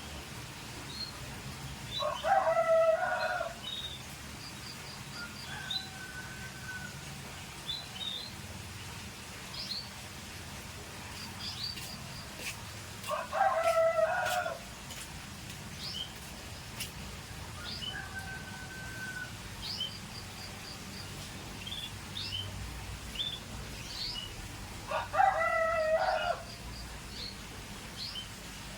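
A rooster crowing three times, each crow about a second and a half long and roughly eleven seconds apart. Short high chirps and call notes, typical of a canary, come and go between the crows.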